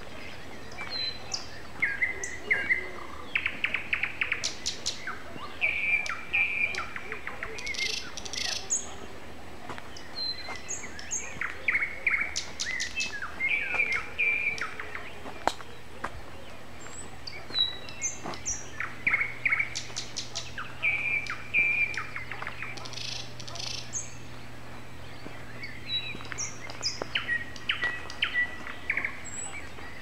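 Songbird singing: varied chirps, short whistles and rapid trills, phrase after phrase separated by short pauses.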